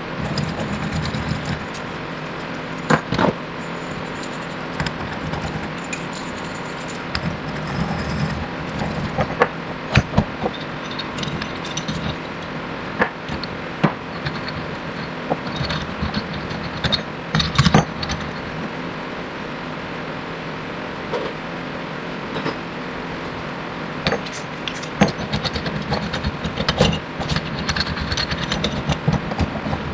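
Hand tools clicking and clanking on metal at an irregular pace, over a steady background hum, while a bearing splitter is worked onto a stuck inner wheel-bearing race.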